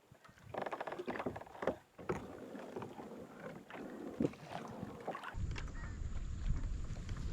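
Knocks, clicks and water sounds of a kayak and fishing gear being handled, with a stretch of fast fine ticking early on. From about five seconds in, a steady low rumble of wind buffeting the microphone takes over.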